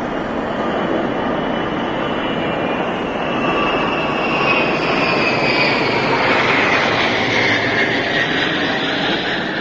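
Military aircraft flying over low, with a steady engine noise that swells and a high engine whine falling in pitch as it passes.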